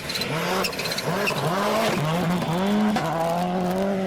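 Rally car engine revving hard, its note climbing and dropping about five times in quick succession as it shifts, then holding one steady note for the last second.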